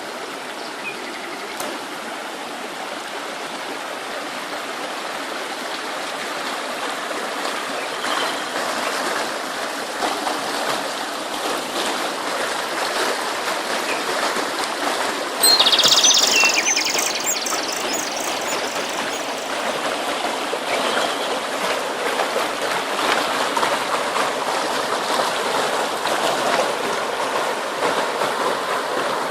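A stream of water running steadily and growing slightly louder, with a few faint bird chirps and a brief, louder high-pitched burst about halfway through.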